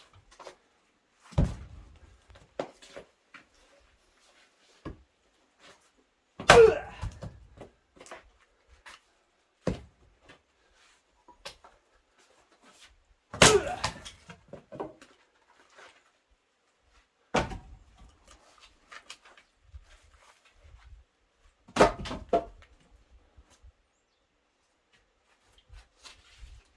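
An axe striking and splitting firewood logs: sharp wooden knocks every few seconds, about six heavy blows with smaller knocks between.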